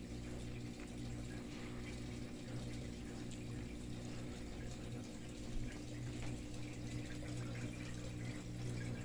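EnviroFan Silverline industrial ceiling fan running on medium speed: a steady motor hum with the even rush of air from its big, heavy blades.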